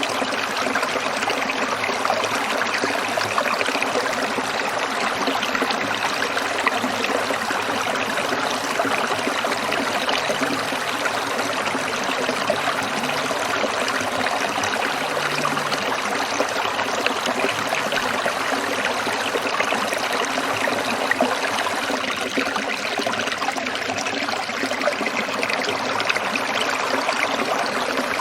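A small stream trickling and babbling over stones, a steady splashing with many fine droplet sounds.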